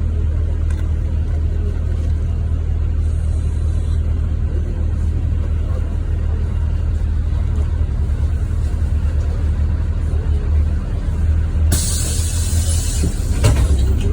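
Inside a NefAZ 5299 city bus: the engine and road noise make a steady low rumble. About twelve seconds in comes a loud hiss of compressed air lasting about two seconds, ending in a sharp release, typical of the bus's pneumatic brakes or doors.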